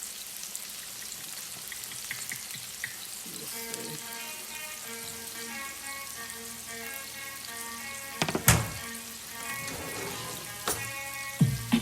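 Chicken and sauce sizzling and bubbling at a boil in a skillet, with two sharp knocks, the loudest about eight and a half seconds in and a lighter one near eleven seconds. Faint music comes in a few seconds in, and a series of rhythmic hits starts near the end.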